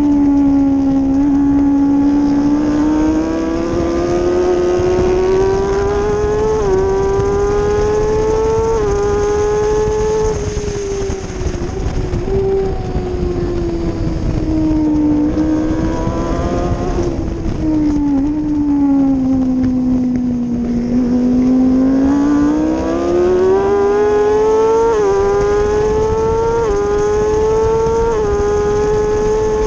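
Kawasaki ZX-6R 636's inline-four engine revving hard at speed: the pitch climbs and drops back slightly at each quick upshift, sinks slowly through the middle, then climbs through several more upshifts near the end. A steady rush of wind noise runs underneath.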